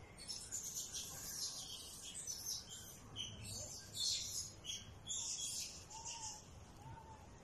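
Small birds chirping faintly in quick, irregular bursts, with a few short, faint whistled calls near the end.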